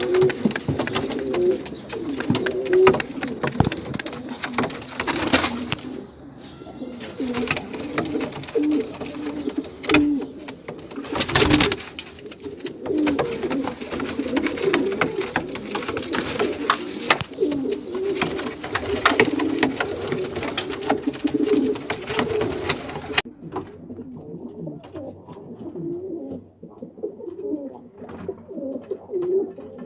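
Domestic pigeons cooing continuously, the low warbling courtship coo of birds being paired, with scattered clicks and a couple of brief louder rushes of noise.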